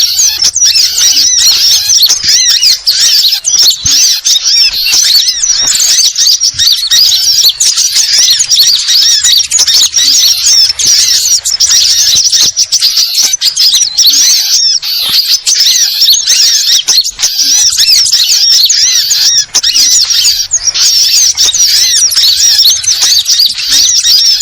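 Dense chorus of sunbirds and other small birds chattering in rapid, high-pitched squeaky notes without a break: a 'burung ribut' bird-lure recording.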